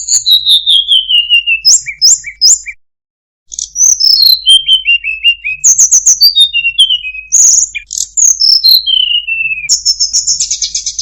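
Tledekan gunung songbird singing: clear whistled phrases that slide downward in pitch, mixed with quick high chattering notes, pausing briefly about three seconds in, and ending on a fast buzzy trill.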